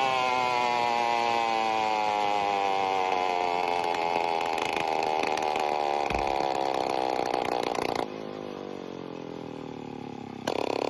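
Phantom 85 two-stroke motorized-bicycle engine running with no exhaust, its pitch falling steadily as it slows down. About eight seconds in it drops suddenly to a much quieter level, then comes back loud just before the end.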